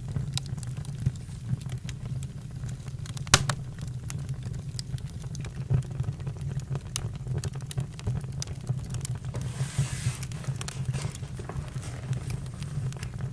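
Campfire crackling: a steady low rumble with scattered pops and clicks, one loud pop about three seconds in, and a brief hiss about ten seconds in.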